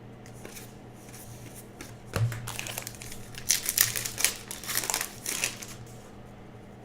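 Plastic trading-card pack wrapper crinkling as it is handled and opened, in a run of crinkling from about two seconds in to near six seconds, over a faint steady hum.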